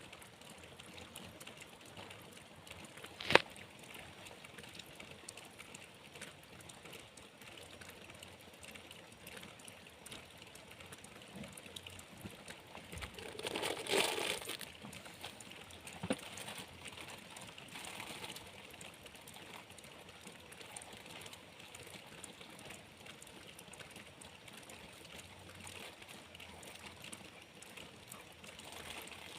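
Steady rain falling, a continuous patter and trickle of water. A single sharp knock sounds about three seconds in, and a brief louder rush of noise swells and fades around the middle.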